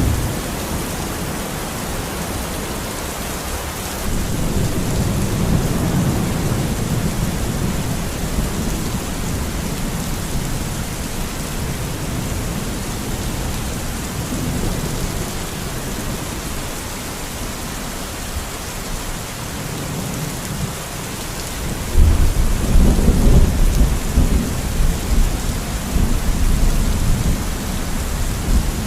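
Steady rain with rolling thunder. A low rumble swells a few seconds in and fades, then a louder peal of thunder breaks about 22 seconds in and rumbles on.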